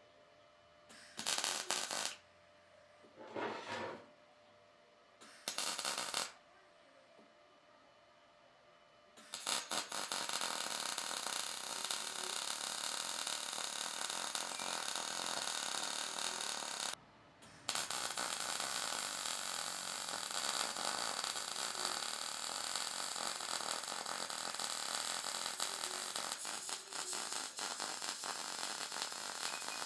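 Workshop power-tool noise: three short bursts, then a steady hissing run that starts about a third of the way in and goes on with one brief pause near the middle.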